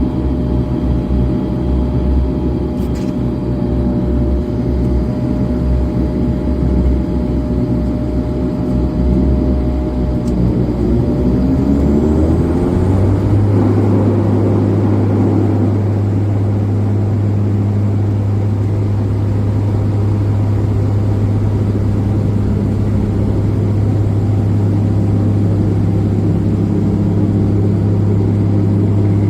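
Twin turboprop engines and propellers of a De Havilland Dash 8-400 at takeoff power, heard from the cabin: a loud rumble with engine tones, some of them rising in pitch, then about halfway through the rumble drops away and a steady propeller drone is left, as the wheels leave the runway.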